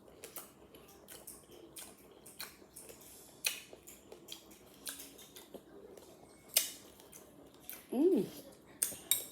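Close-up eating sounds: irregular wet smacks and clicks of chewing a spoonful of fruit in coconut milk. About eight seconds in there is a short hummed "mm" that rises and falls in pitch.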